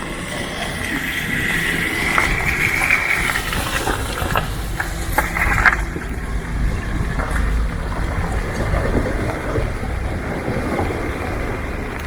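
Street traffic noise on a wet, rain-flooded road, with a steady low rumble and a few short high-pitched sounds in the first half.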